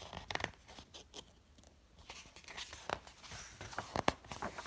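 Soft rustling and light clicks of paper, a picture book's pages being handled and turned.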